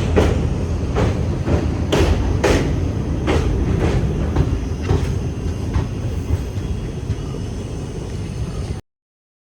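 Express train running over a river bridge: a steady low rumble of wheels on rails, with sharp clickety-clack clicks from the wheels over rail joints. The clicks come about twice a second at first, then thin out, and the sound cuts off suddenly near the end.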